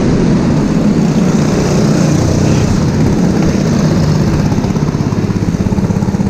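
Four-stroke go-kart engine running steadily, loud and close. Near the end its sound turns into a rapid, even pulsing.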